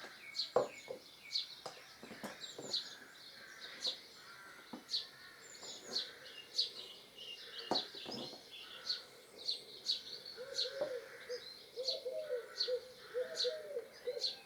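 A small bird chirping over and over, about one short high chirp a second. A dove cooing joins in from about ten seconds in, along with a few light knocks.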